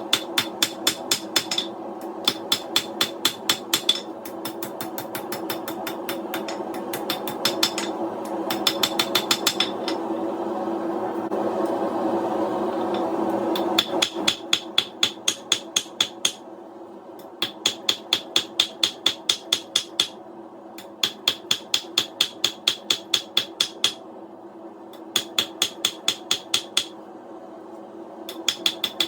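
Hammer forging a coil-spring steel bar into a knife blade: quick runs of hammer blows, about five a second, broken by short pauses. A steady roar runs underneath and is loudest during a longer pause without strikes about ten to fourteen seconds in.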